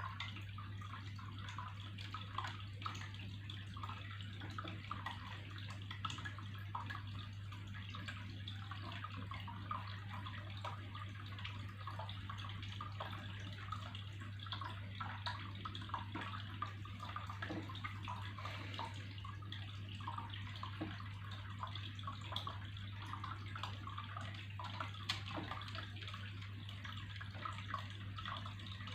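Water trickling and bubbling steadily, with small splashes throughout and a steady low hum underneath.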